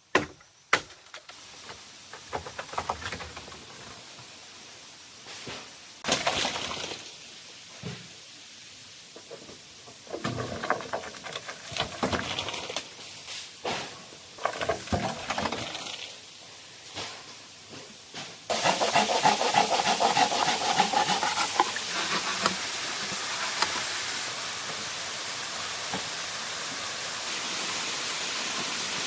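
Scattered knocks, cracks and rustles of bamboo being handled and worked, then, about two-thirds of the way in, a sudden switch to the steady rush of a waterfall.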